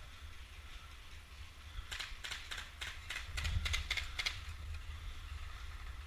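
A quick, irregular run of about ten sharp clicks and snaps a couple of seconds in, over a steady low rumble like wind on the microphone.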